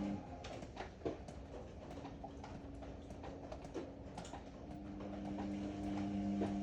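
Ariston AML125 washer-dryer during its wash: the drum motor's steady hum stops, scattered clicks and knocks come from the drum while it is at rest, and the motor hum starts again near the end as the drum turns once more.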